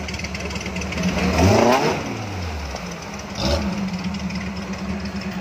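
Off-road 4x4 engine running steadily, revved up and back down once about a second and a half in, with a second short burst of throttle around three and a half seconds.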